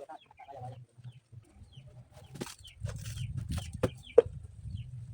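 Short pitched calls at first, then a run of knocks and scrapes over a low rumble, the loudest a sharp knock about four seconds in.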